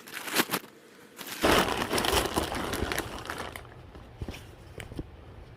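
Packaging crinkling and rustling as items are handled and pulled out: a few small clicks, then a loud burst of crinkling a second and a half in that tapers off into light handling noises.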